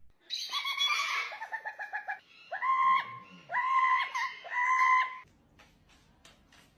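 A bird calling: a quick run of short notes, about eight a second, then three long calls of well under a second each.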